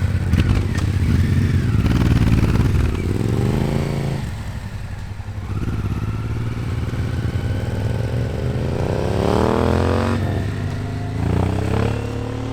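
Motorcycle engines running, with three rising sweeps in pitch as bikes accelerate away.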